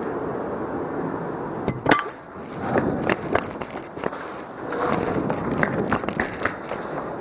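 Airsoft guns firing during indoor play, with BBs striking hard surfaces: a string of sharp, irregular snaps and clinks starting about two seconds in, over a steady background rush.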